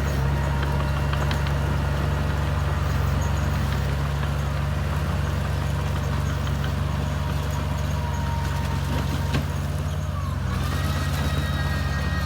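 Bulldozer's diesel engine running steadily with a deep, even drone. There is a single sharp click a little past nine seconds in, and a higher thin tone comes in near the end.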